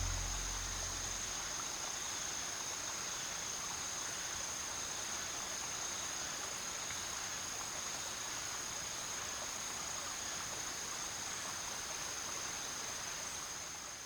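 Insects chirring steadily in a forest, one continuous high-pitched trill over a soft hiss of outdoor ambience, fading out near the end.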